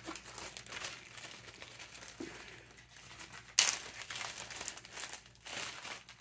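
Crinkling and rustling of craft materials being handled, with a sudden louder crinkle about three and a half seconds in.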